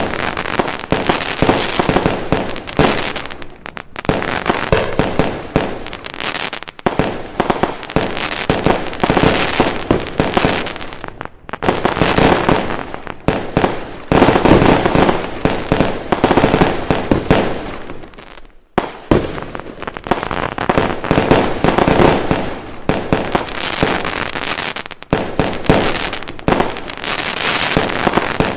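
Fireworks going off in a dense, continuous barrage of bangs and crackling, with a few brief lulls.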